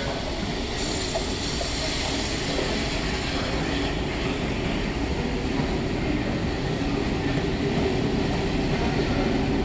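Train hauled by steam locomotive 34067 Tangmere running on the rails: a steady rumble of wheels on track, with a brief high hiss about a second in.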